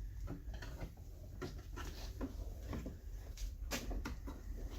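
Light handling noises: scattered small clicks and rustles over a low steady rumble.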